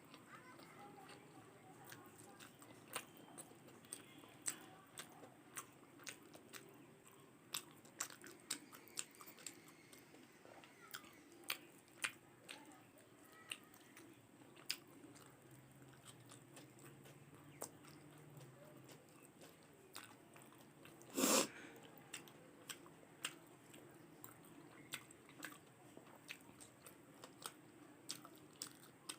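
Close-up eating sounds: chewing with frequent small wet mouth clicks while eating rice, curry and salad, and one louder crunch about two-thirds of the way through.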